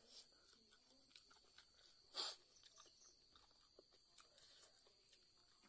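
Faint eating sounds of a person chewing food and working rice with the fingers: scattered small mouth clicks, with one short, louder noise about two seconds in.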